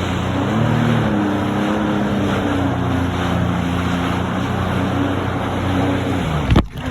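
Jet ski engine running steadily at speed, its pitch drifting a little, under heavy wind and water spray noise. The sound cuts out briefly near the end.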